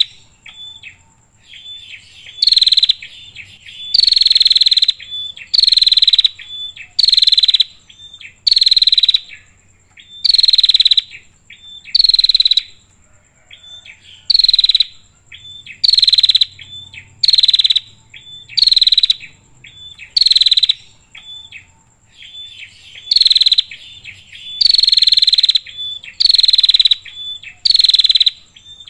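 Female prinia (prenjak) calling to attract a male: loud buzzy rattling calls, each under a second long and falling slightly in pitch, repeated about every one and a half seconds with soft chips in between. A steady thin high insect-like tone runs underneath.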